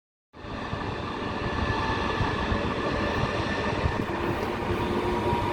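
EP2K electric locomotive hauling a passenger train away from the station: a steady rumble with several steady whining tones from its equipment, one more tone joining about two-thirds of the way in.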